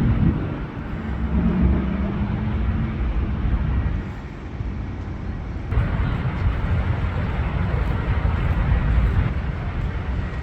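Low outdoor rumble with wind buffeting the microphone. A low steady hum runs through the first few seconds, and the rumble swells again about six seconds in.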